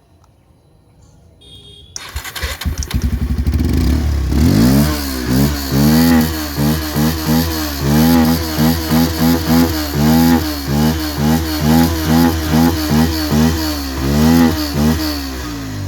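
Bajaj Pulsar 150's single-cylinder four-stroke engine starting about two seconds in, then revved again and again in quick throttle blips, about one and a half a second, with the air-filter kit pulled out to make it louder.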